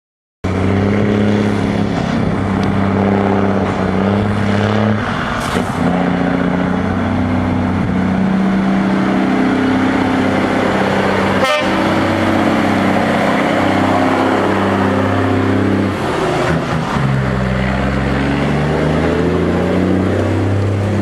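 Heavy truck with an open, unsilenced exhaust running loud at high revs, its deep note holding steady and shifting in pitch, then rising near the end.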